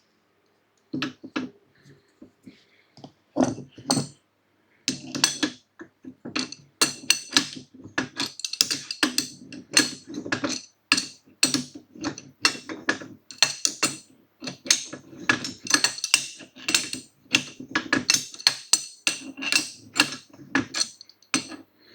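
Repeated sharp metallic clinks and taps with a short ring, a few at first and then coming several a second from about five seconds in: tools working on the steel frame of a hydraulic motorcycle scissor lift as its bolts are fitted and tightened.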